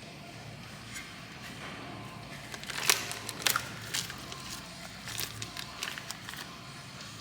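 Light metallic clicks and clinks over a steady shop hum, a cluster of them starting about three seconds in, some briefly ringing: steel main bearing shells being handled and pressed into the main saddles of a Cummins 6BT engine block.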